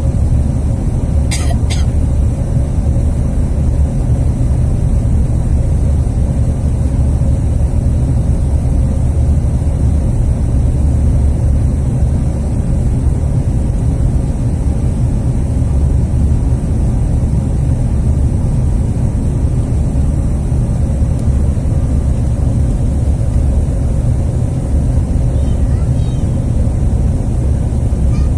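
Steady low rumble of airflow and the CRJ1000's two rear-mounted turbofan engines heard inside the passenger cabin, with a faint steady hum and a brief click about a second and a half in.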